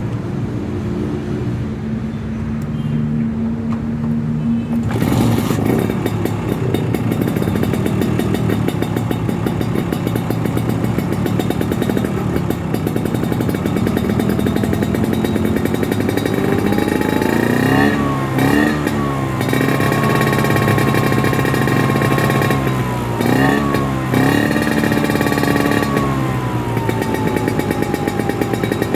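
Vespa scooter's two-stroke single-cylinder engine running through a PRP Racing standard-type S2 exhaust with an aluminium silencer. It idles at first and gets louder about five seconds in. In the second half it is revved a few times, pitch rising and falling, held higher for a while, then easing back down near the end.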